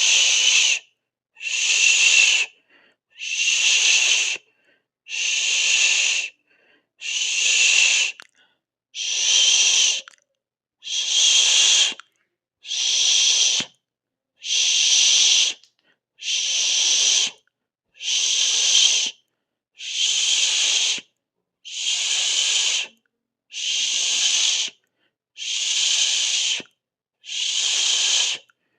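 A person hissing a drawn-out 'sss' over and over, each hiss about a second long and cut off by a short silence, about one every two seconds, evenly paced.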